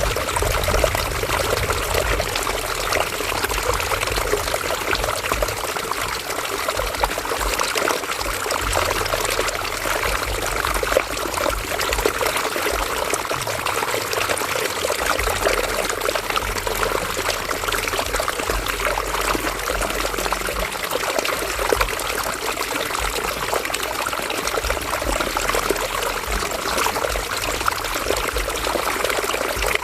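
River water flowing steadily over rocks, a continuous splashing and gurgling rush.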